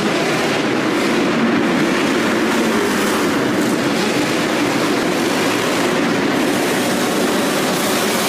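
Motocross bike engine running steadily, a loud continuous mechanical noise with no clear revving up or down.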